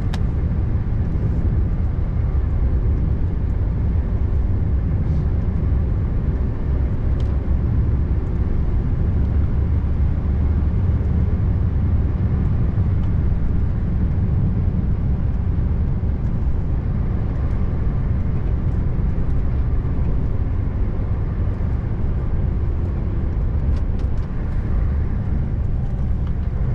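Scania R590 V8 truck driving along: a steady, unbroken low drone of engine and road noise.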